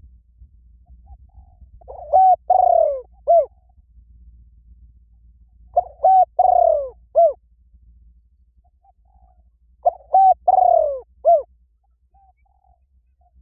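A bird's low cooing phrase, short notes around one long falling note, repeated three times about four seconds apart.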